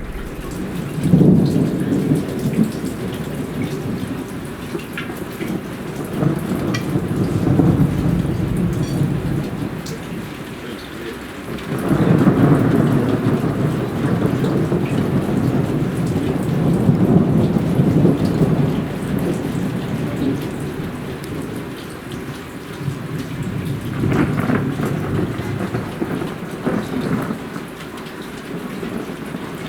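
Heavy rain falling steadily with repeated long rolls of thunder: one swells about a second in, another around seven seconds, the loudest and longest from about twelve to nineteen seconds, and another near twenty-four seconds.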